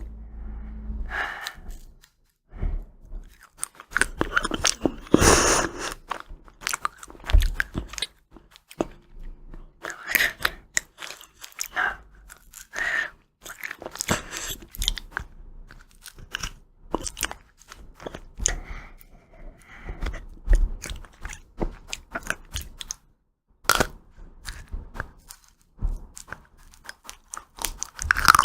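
Person eating ice cream close to the microphone: irregular crunching bites and chewing, with a few short pauses.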